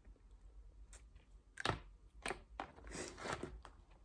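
Eating crab close to the microphone: sharp cracks and crunches of crab shell with chewing, a few single cracks followed by a denser run of crackling about three seconds in.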